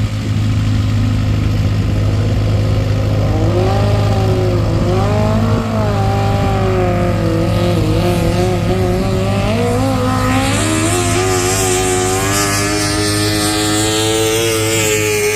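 Antique farm tractor engine working hard under load while pulling the sled, its pitch wavering up and down, then climbing steadily from about ten seconds in. A steady low hum runs underneath.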